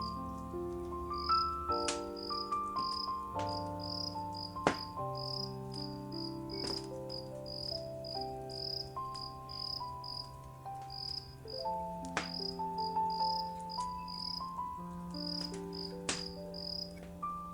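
Crickets chirping steadily, about three chirps a second, with a few sharp crackles and pops from a wood fire, over slow, soft sustained music notes.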